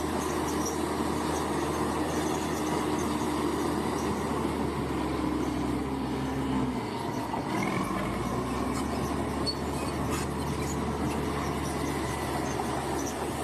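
Bulldozer's diesel engine running steadily under work, its low note dropping and shifting about halfway through.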